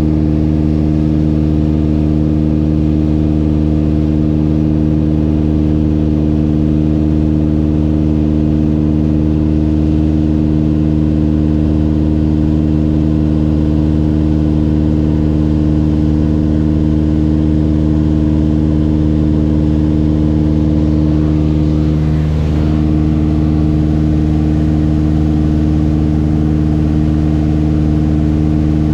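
Mooney M20J's four-cylinder Lycoming engine and propeller running with a steady drone, with a brief slight shift in pitch about two-thirds of the way through.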